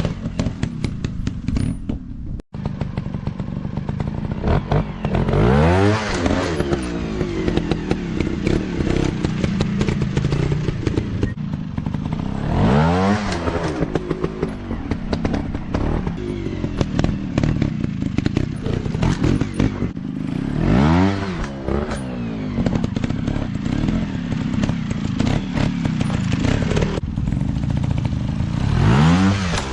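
Dirt bike engine running and revving up then dropping back about four times, with clatter and knocks throughout.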